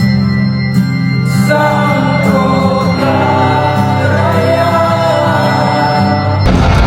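Live band playing a song with singing: a held low chord, with the vocal line coming in about a second and a half in, and the full band with drums coming in near the end.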